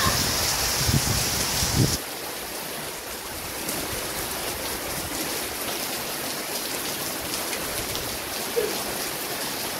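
Heavy rain falling in a steady hiss, which drops abruptly to a quieter, even hiss about two seconds in.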